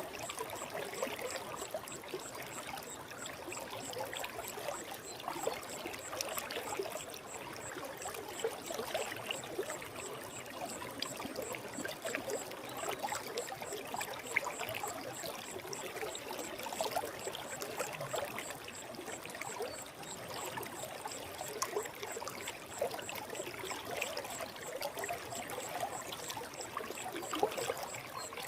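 Forest stream running over rocks, a steady rush of water with constant bubbling and splashing.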